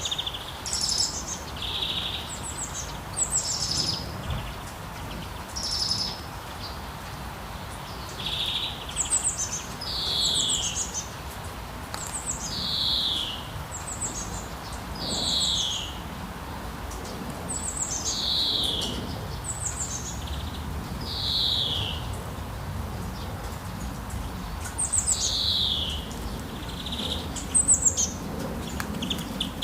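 Songbirds calling over and over: short whistled notes that slide downward, alternating with higher, quicker chirps, every one to three seconds. A steady hiss of light rain lies beneath.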